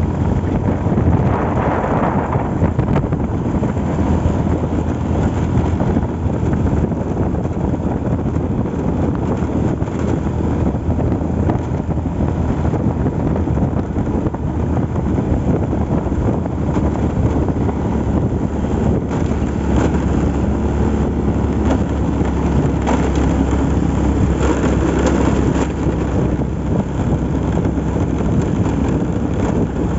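A vehicle's engine running steadily on the move, with wind rushing over the microphone.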